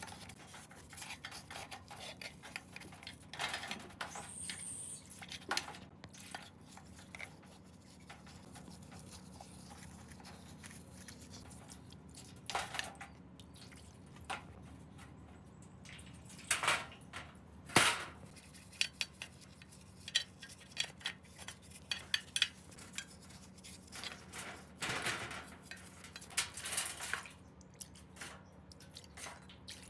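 Scattered metallic clinks, taps and knocks of small metal engine parts and hand tools being handled and set down. There are a few louder knocks about halfway through.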